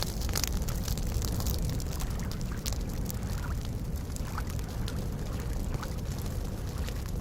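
Wood campfire crackling with scattered sharp pops, over a steady low wash of small lake waves lapping.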